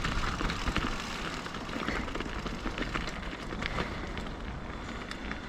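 Mountain bike rolling downhill on a dirt flow trail: a steady rumble of tyres over the ground and wind on the microphone, with scattered clicks and rattles from the bike.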